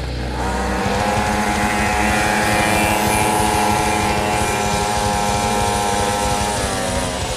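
Small two-stroke mini moto engine revving up within the first second and held at high revs for several seconds, then falling away near the end.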